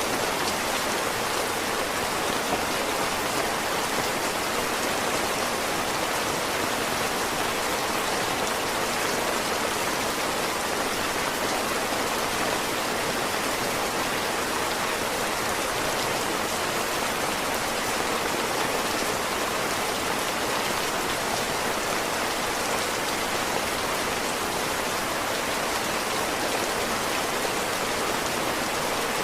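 Heavy rain falling steadily in an even, dense hiss with no let-up.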